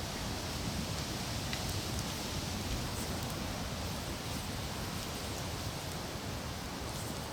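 Steady wind hiss outdoors, with a few faint crackles from a hardwood campfire.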